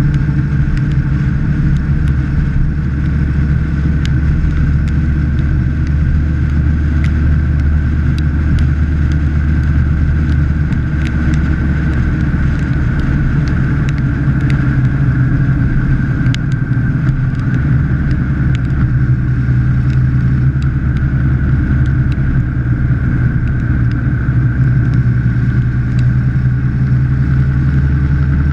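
Motorcycle engine running steadily at road cruising speed, heard from a camera mounted low on the bike, with wind and road noise. The engine pitch eases slightly in the first few seconds and climbs a little near the end.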